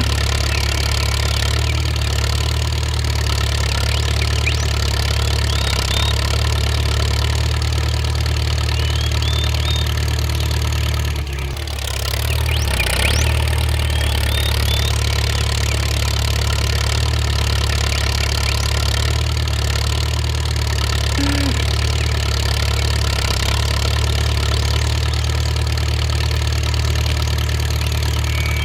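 An engine idling steadily, with a brief dip in level about twelve seconds in.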